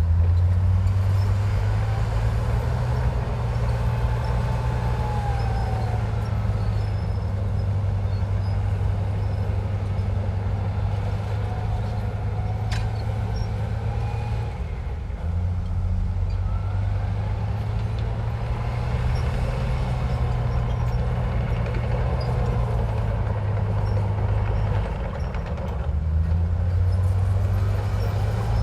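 Komatsu bulldozer's diesel engine running under load with a steady low rumble that eases off briefly about halfway through and again near the end. Faint high squeals come now and then, with a single sharp click about halfway.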